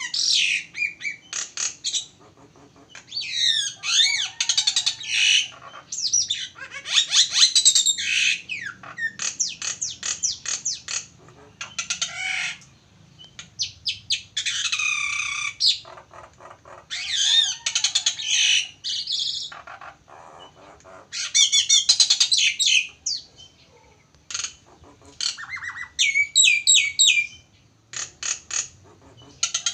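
A jalak (Indonesian starling or myna) singing in a recording made for training other songbirds. Its song comes in repeated phrases a second or two long, made of rapid chattering notes mixed with gliding whistles, with short pauses between.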